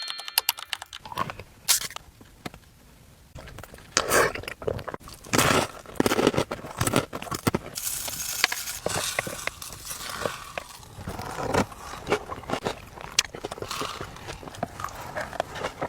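Close-miked eating: irregular crunchy bites and chewing of Nutella snacks, with small crackles and scrapes.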